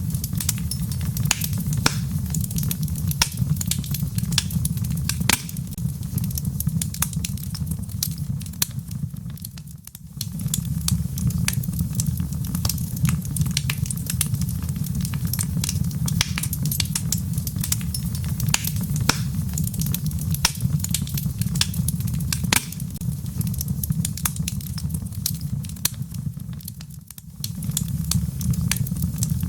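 Wood fire crackling, with frequent sharp pops and snaps over a steady low rumble; the sound dips briefly twice, about ten seconds in and near the end.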